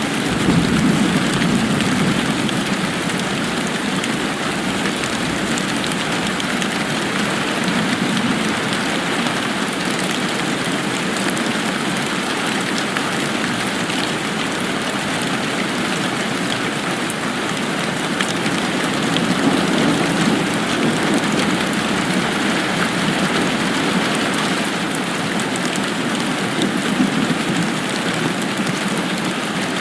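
Steady rain falling and pattering on surfaces, an even hiss with gentle swells in its lower rumble.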